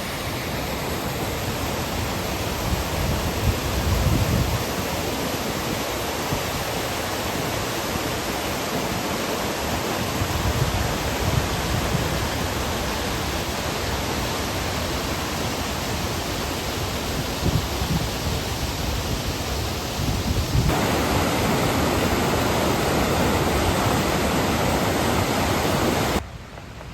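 Steady rush of water at the top of Hardraw Force waterfall, a dense even noise. It gets louder about 21 seconds in and drops away suddenly near the end.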